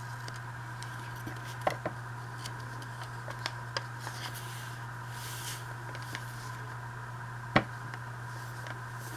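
Paper and an envelope being handled at a craft desk: light taps, a soft rustle and scattered clicks, the sharpest about seven and a half seconds in, over a steady low electrical hum.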